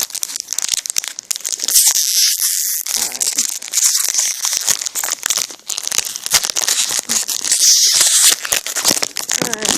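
Foil wrapper of a Yu-Gi-Oh! trading-card booster pack crinkling and tearing as it is opened by hand, a dense crackling rustle that is loudest about two seconds in and again near eight seconds.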